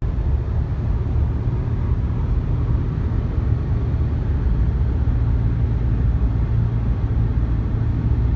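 Honda Odyssey minivan driving along the road: a steady low rumble of tyres and engine.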